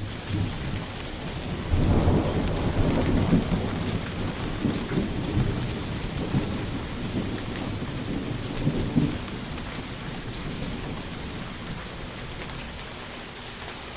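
Steady heavy rain with a long roll of thunder that starts about two seconds in, swells unevenly several times, and dies away by about nine seconds, leaving the rain alone.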